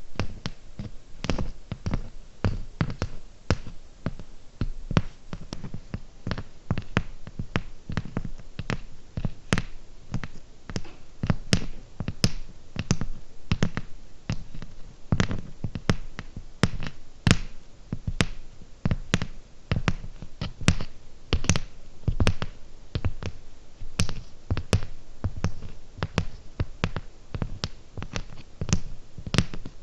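Fingernails tapping close to the microphone, a few sharp taps a second at an uneven pace.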